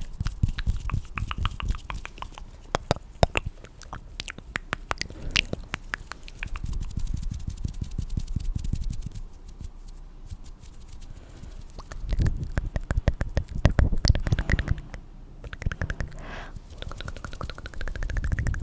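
Close-miked ASMR sounds: dense small clicks and crackles, with spells of low rubbing rumble that are heaviest about twelve to fifteen seconds in.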